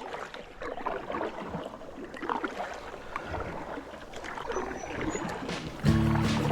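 Water lapping and splashing, an irregular crackle of small splashes. Music starts near the end.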